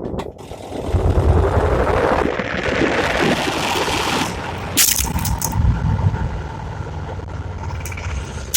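Washing machine dryer drum spinning, heard from inside it by the phone: a loud, steady noise over a low hum, with a few sharp knocks about five seconds in as the phone is thrown against the drum.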